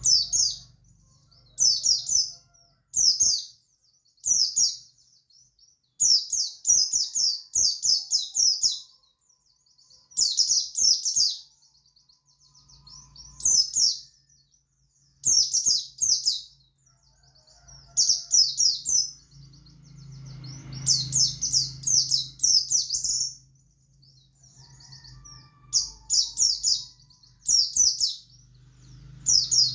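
Pleci buxtoni white-eye singing in the wild 'ngalas' style: bursts of rapid, high chirps about a second long, repeated with short gaps, over a faint low hum.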